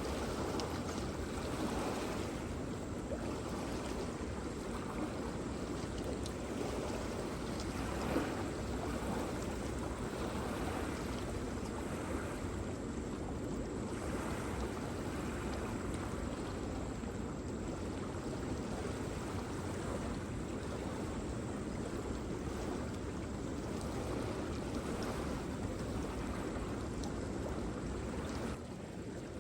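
Waterfall: a steady, continuous rush of falling water, a little quieter near the end.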